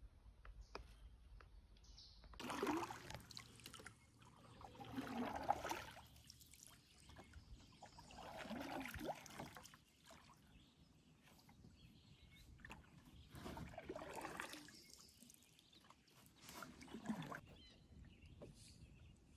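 Canoe paddle strokes pulling through pond water, about one swishing, dripping stroke every three to four seconds.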